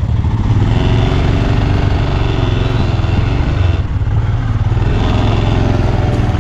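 Royal Enfield motorcycle engine running steadily while riding.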